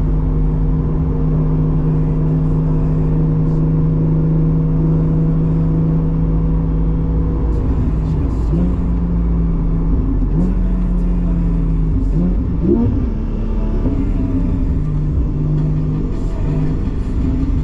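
Porsche 718 GTS 4.0's naturally aspirated 4.0-litre flat-six, breathing through a Kline stainless exhaust with the valves open, droning at a steady engine speed. Past the middle its pitch shifts several times with short rises in revs, then it settles back to a steady drone.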